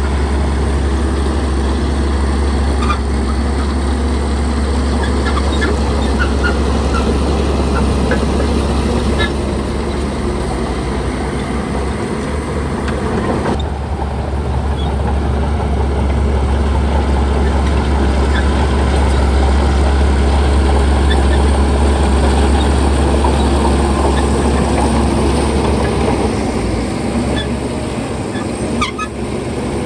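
Shantui bulldozer's diesel engine running steadily with a deep hum, a little louder past the middle, with short sharp high sounds scattered over it.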